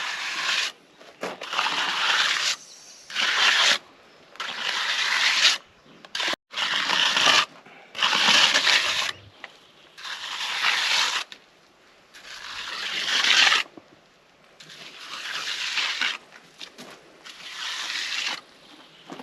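A hand tool scraping through wet concrete mix in a steady series of strokes, about one every one and a half to two seconds.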